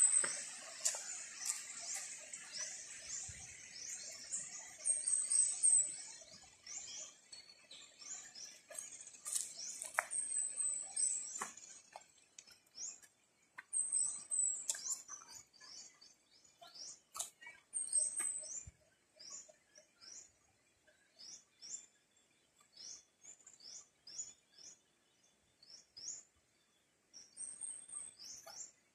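Birds chirping in a tropical grove: many short high chirps, some in quick runs of three or four notes, over a faint hiss that fades after the first few seconds.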